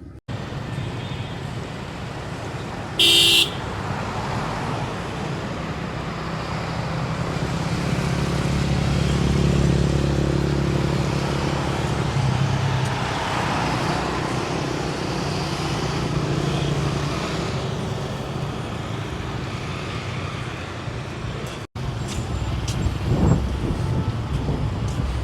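Road traffic running steadily, with a vehicle passing and its engine hum swelling towards the middle, and a short horn toot about three seconds in.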